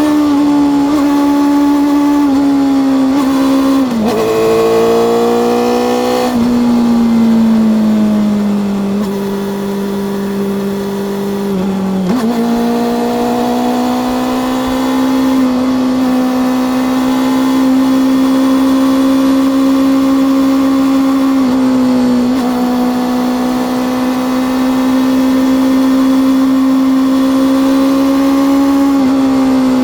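Honda CB400SF Revo's 399 cc inline-four engine and exhaust running steadily under way. Its pitch dips about four seconds in, sags gently until about twelve seconds in, then steps up and holds level to the end.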